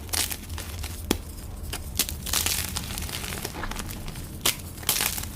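Dyed gym chalk blocks being crushed: several sharp, crisp cracks, with longer crumbling crunches about halfway through and near the end.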